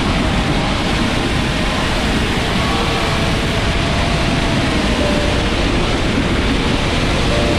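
Steady, loud rushing noise of wind and water, with a few faint thin whining tones underneath.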